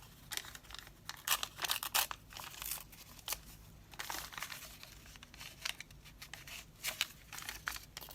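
Paper scraps and packaging being handled: irregular bursts of paper rustling and crinkling, with brief quieter gaps between them.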